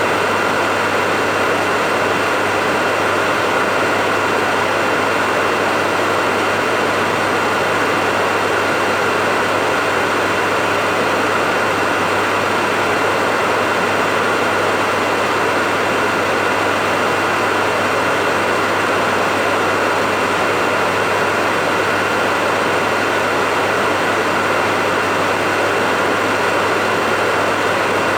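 Hair dryer running at a steady, unchanging level: a rush of air over a low motor hum and a faint high whine.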